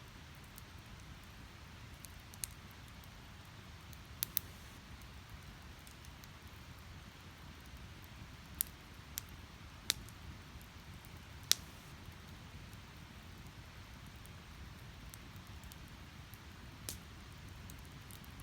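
Wood fire burning in a Snow Peak Takibi-dai S fire pit: split firewood crackling, with about eight sharp pops and snaps at irregular times over a low, steady rumble of the flames.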